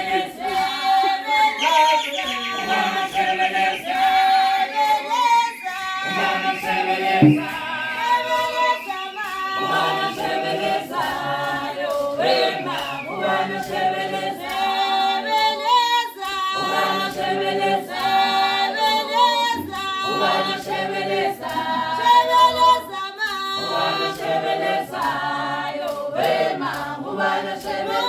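A group of voices singing a traditional song unaccompanied, in harmony, at a steady volume throughout.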